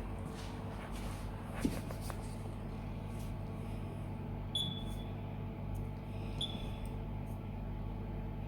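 Air-conditioning recharge station switched on, running with a steady low hum, its keypad giving two short high beeps about halfway through as its menu is worked.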